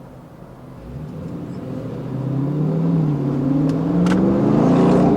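A car engine growing steadily louder from about a second in, its pitch rising and dipping a little as it revs.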